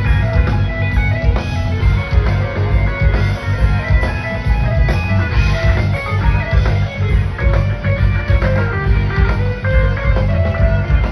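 Rock band playing an instrumental jam live: an electric guitar runs a quick lead line over bass and drums.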